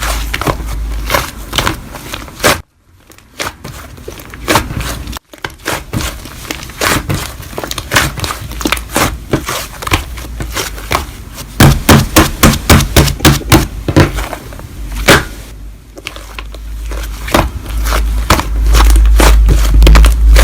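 Slime being squeezed and stretched by hand, giving dense crackling and popping clicks, with a run of loud, rhythmic pops about two-thirds of the way through.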